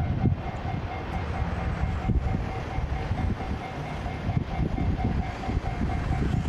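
Train running past a Japanese railroad crossing, its wheels rumbling and clattering over the rails. The crossing's warning bell rings over it in a steady, rapid kan-kan pulse.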